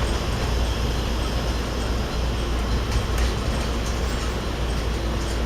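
KiHa 52 diesel railcar running along the line, heard from on board: a steady rumble of the diesel engine and wheels on the rails.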